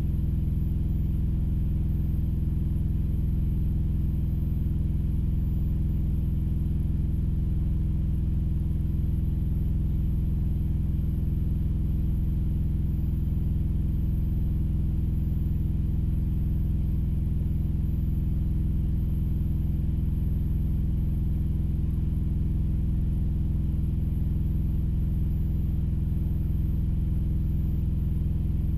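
Steady low rumble of an idling engine, unchanging throughout, heard from inside a vehicle's cab.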